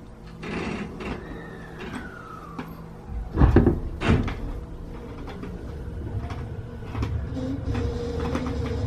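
Tobu 50090-series train's doors sliding shut with two loud thuds a few seconds in, then a low hum growing louder as the train starts to pull away.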